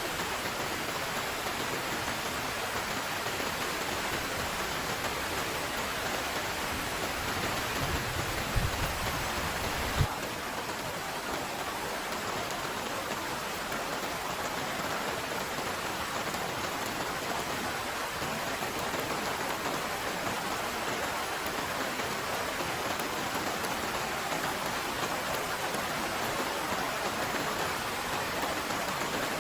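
Heavy rain falling steadily. Two brief low thumps come about eight and ten seconds in.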